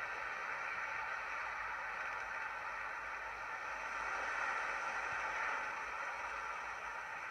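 Train running, a steady rushing noise.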